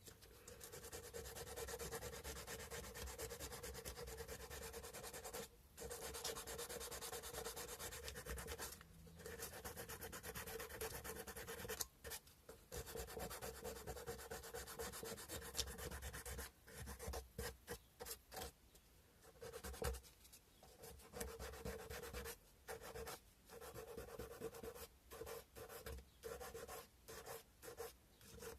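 Carved cow-bone fish hook being rubbed by hand on sandpaper. Long continuous sanding with a few brief pauses, then shorter, choppier strokes with frequent gaps over the second half.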